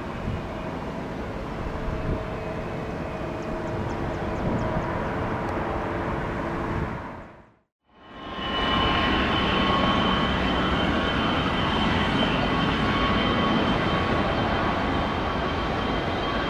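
Jet airliner engines running with a steady rush and several steady whining tones. About halfway through the sound fades out to silence and fades back in louder, with a high steady whine from another jet.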